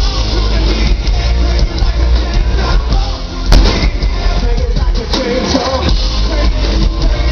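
Loud live rock band playing with heavy bass and drums, sharp hits about 3.5 s in, heard through a concert recording.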